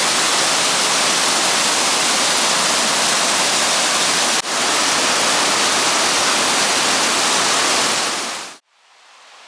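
Colwith Force waterfall: a loud, steady rush of falling water close to the microphone. It drops out for an instant about four and a half seconds in, then cuts off suddenly near the end, leaving only a faint hiss.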